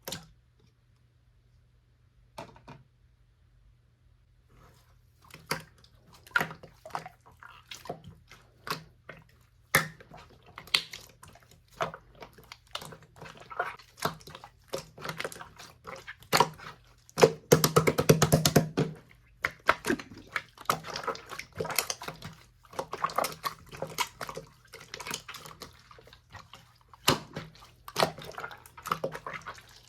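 Red clear slime being squished and poked by hand: wet, sticky pops and clicks that come irregularly about twice a second after a quiet start, turning into a dense run of crackling around the middle.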